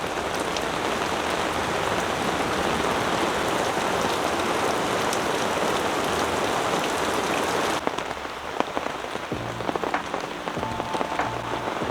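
Heavy rain pouring steadily. About eight seconds in it cuts to lighter rain with distinct individual drops, and faint music tones come in near the end.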